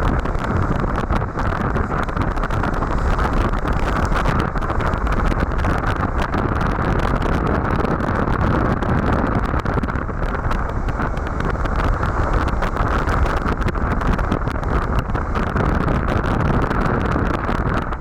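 Steady rush of wind on the microphone mixed with the noise of a Suzuki V-Strom 1050XT motorcycle under way at road speed.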